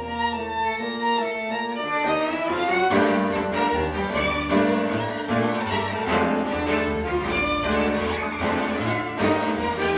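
Live chamber music: violin and cello bowing, with a quick climbing run in the first couple of seconds, then close, rhythmic ensemble playing.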